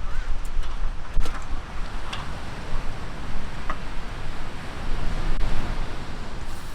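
Wind buffeting the microphone over the wash of sea surf on a beach, a continuous rumbling noise with a few faint clicks.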